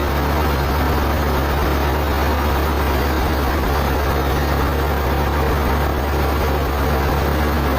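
Sawmill machinery running steadily with a low, even hum and no change in pitch or load.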